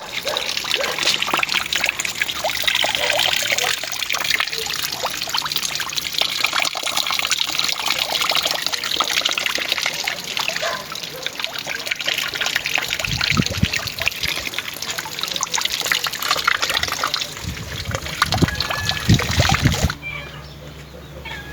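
Running water trickling steadily, with some low rumbling in the second half. The sound drops off suddenly near the end.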